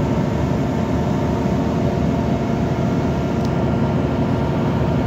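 Steady running noise inside a moving passenger train carriage: the wheels rumbling on the rails at speed.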